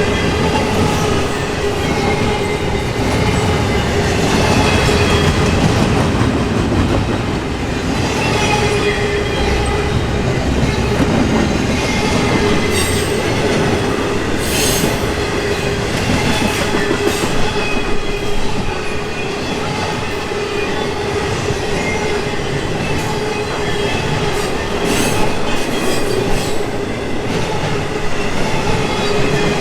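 Intermodal container freight cars rolling past. Wheels on rail make a steady rumble with scattered clicks, and a thin, continuous squeal of wheels against the rail runs over it.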